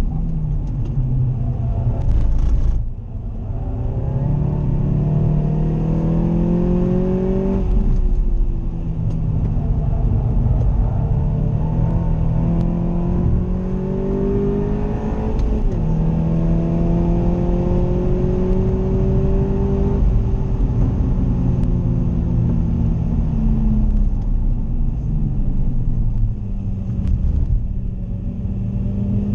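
Seat Leon ST280 Cupra's turbocharged 2.0-litre four-cylinder heard from inside the cabin at racing pace. It climbs in pitch under hard acceleration and drops sharply at each upshift of the manual gearbox, then falls away as the car slows for corners, over a steady road rumble.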